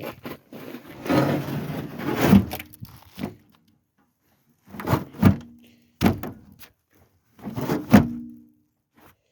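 Rough scraping and shuffling, then a series of hollow thumps and knocks, each short and spaced a second or two apart.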